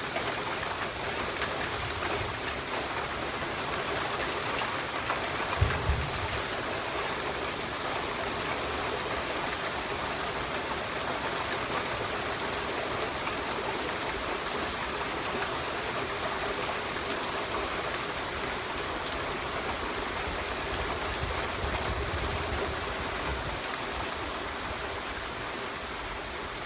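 Steady rain falling on a wet paved patio, with one brief low thump about six seconds in.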